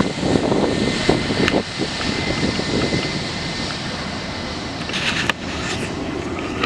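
Jet airliner engine noise: a loud, steady rushing sound with a thin high whine that fades out about two seconds in.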